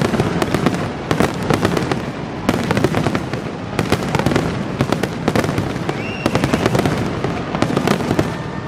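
Aerial fireworks going off in a rapid, continuous run of overlapping bangs and crackles.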